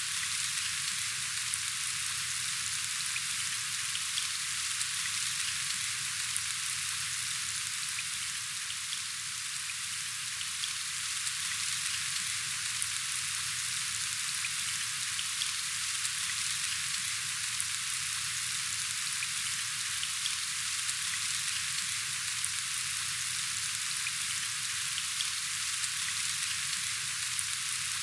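Steady rain falling: an even hiss of many drops, with scattered individual drop ticks.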